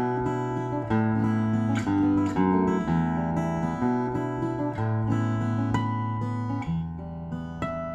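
Solo acoustic guitar playing a slow fingerstyle piece that mixes ringing natural harmonics with regularly fretted notes over sustained bass notes, which change about once a second.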